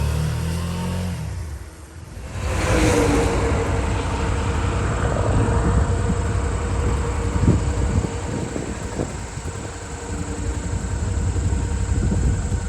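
Motorcycle engine running. About two seconds in, the sound dips briefly and gives way to a steady rush of engine rumble and wind noise, as of riding.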